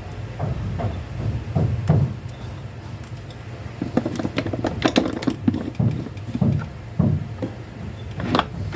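Irregular clicks and knocks from handling the Zurg robot toy's hard parts, most frequent in the middle, over a steady low hum.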